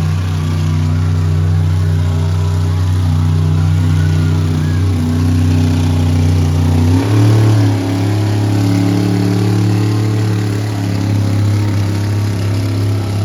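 Monster truck engine running at a steady low pitch, stepping up to a higher speed about seven seconds in, with a brief surge in loudness.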